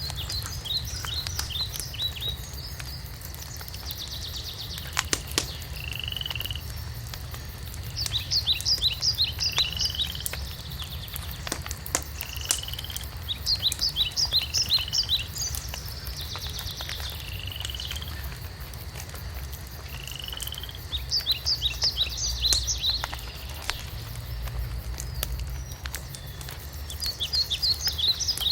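A songbird repeats the same short phrase about every six seconds: a fast run of high notes ending in a lower slurred note. Scattered sharp pops and crackles from a wood fire sound over a low steady rumble.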